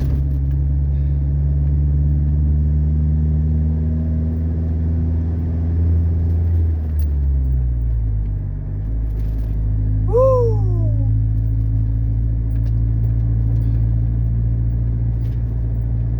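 Ford Ranger pickup's engine running while driving, its pitch dropping about halfway through. About ten seconds in comes a short squeal that falls in pitch.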